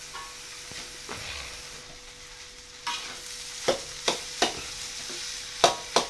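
Fried rice sizzling in a pan as it is stirred, with sharp knocks of the spatula against the pan that come several times from about three seconds in.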